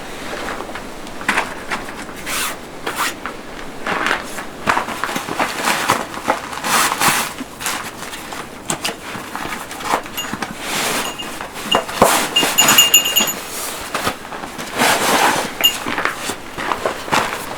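Irregular rustling, scraping and clicking of things being handled, with a few brief high chirps about two-thirds of the way through.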